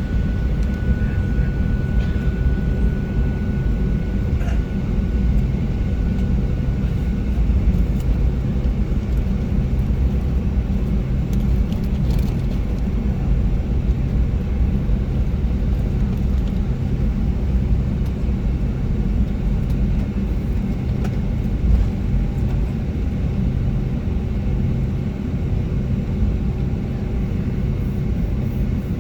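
Cabin noise inside a Boeing 757-300 airliner: a steady low rumble of the engines and airflow, with a thin steady whine that fades out after about seven seconds.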